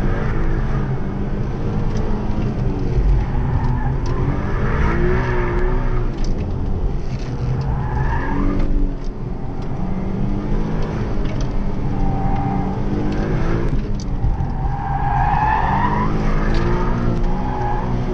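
Infiniti M37s's 3.7-litre V6 engine heard from inside the cabin during an autocross run, its pitch rising and falling as the car is driven hard between cones. Tyres squeal in repeated bursts through the corners, loudest a little after three-quarters of the way through.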